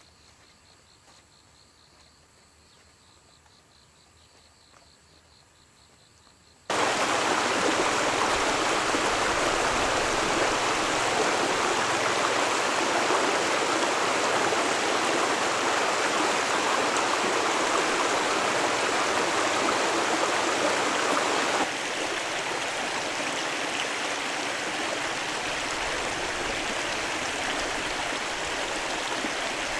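Steady rush of water noise that starts abruptly after a short near-quiet stretch and drops somewhat in level about three-quarters of the way through.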